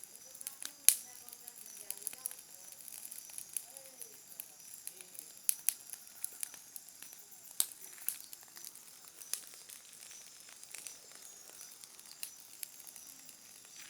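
Wood campfire crackling, with sharp pops at irregular intervals, the loudest about a second in, over a steady high hiss.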